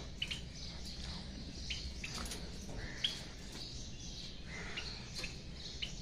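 Small cage birds chirping: short, high calls at scattered moments, the loudest about three seconds in, over a low, steady background noise.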